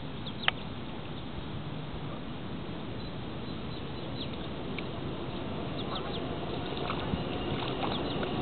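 Birds calling in short, scattered chirps over a steady background hiss, with one sharp click about half a second in.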